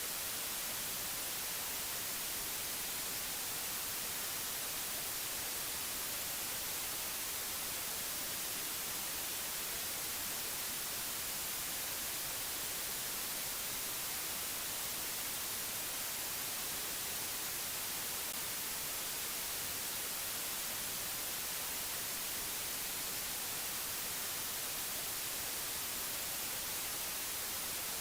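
Steady, unchanging hiss of white noise, brightest in the high treble, with no other sound over it.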